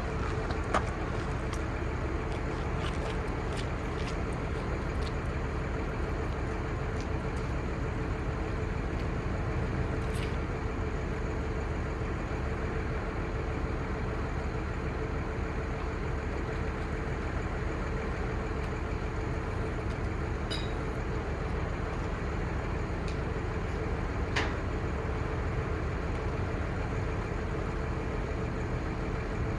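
The truck's 5.9L Cummins six-cylinder turbo diesel running at a steady idle, with a constant hum and a few faint ticks.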